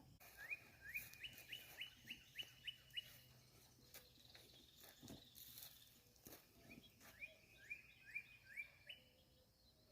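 A songbird singing faintly: a quick series of short rising whistled notes, about three a second, given twice.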